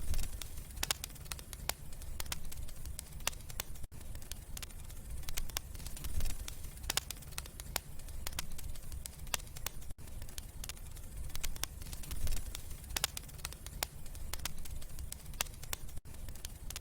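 Wood fire crackling and popping, with irregular sharp snaps over a low, steady rumble of the flames. Brief gaps in the sound come about every six seconds.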